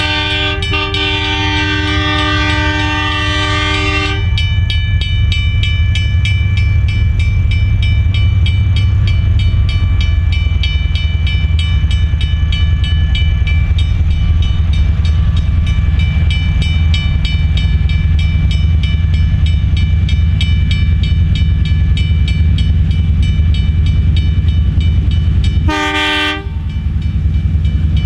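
Narrow-gauge diesel freight train at a level crossing: its horn sounds a long chord for the first four seconds, then the locomotive engine and wagons run past steadily, with fast, even clicking over the rails. A short second horn blast comes near the end.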